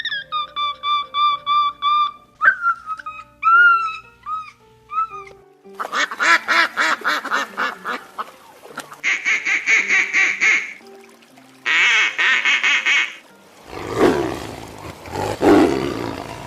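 A run of short animal-call recordings joined one after another. First come short repeated pitched notes, then brief rising chirps, then two stretches of rapid, evenly pulsed harsh calls. A noisy, rougher passage follows near the end.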